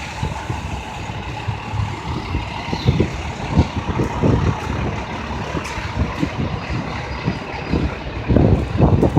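Fire truck diesel engine running steadily, with irregular low thumps of wind on the microphone that grow heavier near the end.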